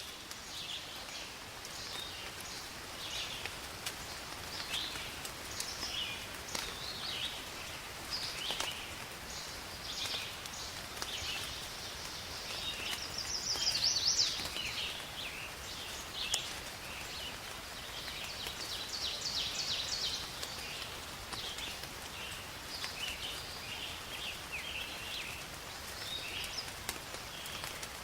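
Many small birds chirping and trilling over a steady hiss of rain, with a few sharp drip-like ticks. A burst of louder calls comes about halfway through.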